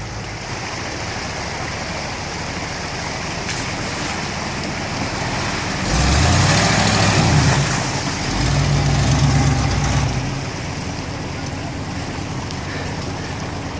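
1979 Ford Bronco's 460 big-block V8 idling over the steady rush of a creek, then revving up about six seconds in and again about two seconds later, each rev lasting a second or two.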